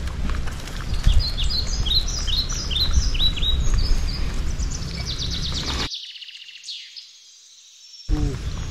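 Small birds chirping: a steady run of short, falling chirps, about three a second, over a low outdoor rumble. Near the end the rumble drops out for a couple of seconds and one longer falling whistle is heard.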